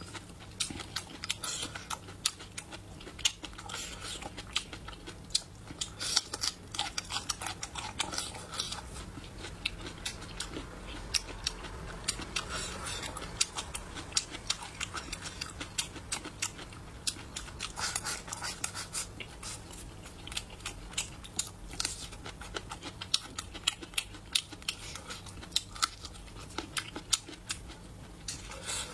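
A person chewing and smacking their lips close to the microphone: many quick, irregular mouth clicks throughout.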